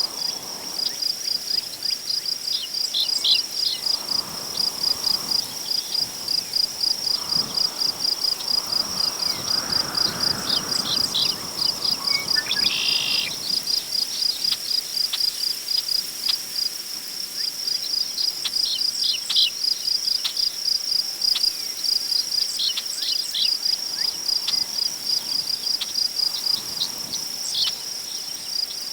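Crickets chirping in a steady, rapid, even rhythm, with short bird calls now and then and a soft rush of wind through tall prairie grass that swells and fades in the first half.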